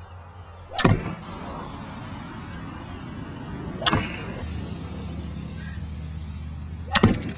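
Three sharp cracks about three seconds apart, the last a quick double, as golf balls are driven against a foam hot-tub cover in a simulated hail-damage test. A steady low hum runs underneath.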